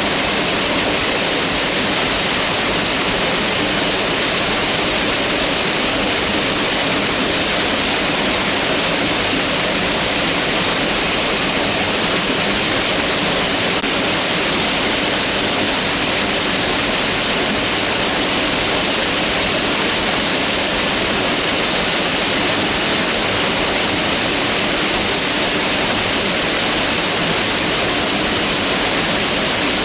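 Mountain river rushing steadily, a constant dense hiss of fast-flowing water with no breaks.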